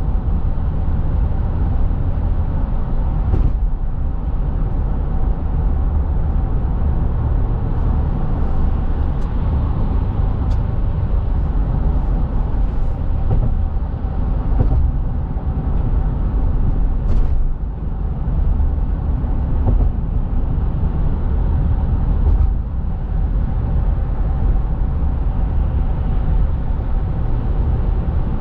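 Steady deep rumble of road and engine noise heard inside a moving car, with a faint steady hum and a few light ticks.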